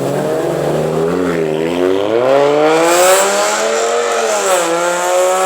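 Car engine revving loudly as it accelerates: its pitch dips about a second in, climbs for about two seconds, drops briefly near the end, then holds high.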